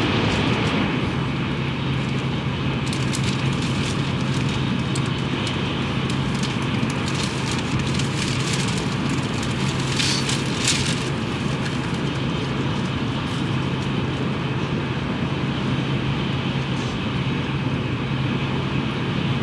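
Tokaido Shinkansen train running at speed, heard inside the passenger car: a steady low hum under a continuous rush of air and track noise. A patch of crackling clicks rides over it in the middle.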